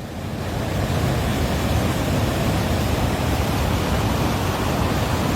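Floodwater from rain and torrents rushing past in a steady, loud wash of noise, swelling over the first second and then holding even.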